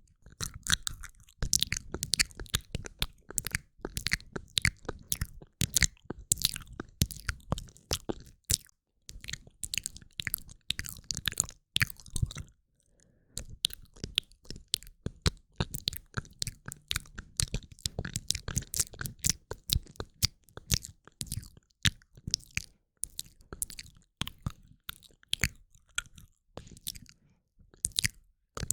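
Close-up ASMR mouth sounds: rapid wet clicks, tongue and lip smacks in a dense crackling stream, broken by a few brief pauses.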